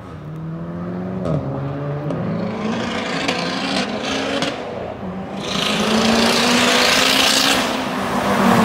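A tuned car's engine accelerating hard toward the listener, growing steadily louder. The pitch drops once about a second in at a gear change, then climbs again, with a loud rush of exhaust and road noise in the second half as the car draws near.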